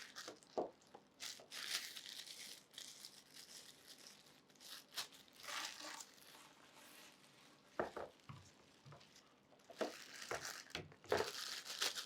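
Packaging crinkling and rustling in irregular bursts, with light clicks and knocks, as vacuum cleaner accessories are lifted out of their box.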